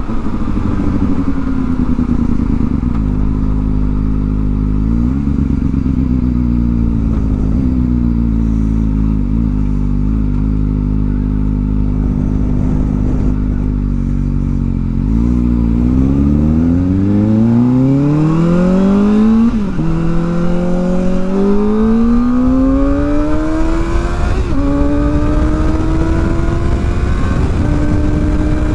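Kawasaki ZX-4R's inline-four engine through a new aftermarket exhaust, running steadily at low revs, then accelerating hard from about halfway through: the pitch climbs steeply, drops at an upshift, climbs again and drops at a second upshift before rising once more.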